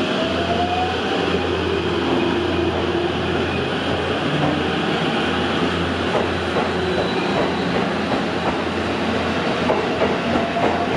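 Electric train running on the rails, its motor whine rising in pitch near the start and again near the end, with clicking from the wheels in the second half.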